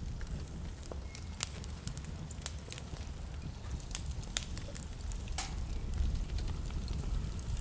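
Wood fire burning in a fireplace: a steady low rumble of flame with sharp, irregular crackles and pops scattered throughout.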